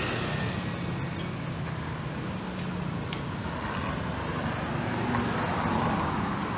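Honda Phantom 200's air-cooled single-cylinder engine idling steadily. It has a slight top-end noise, which the seller suspects may be a cam chain starting to go slack.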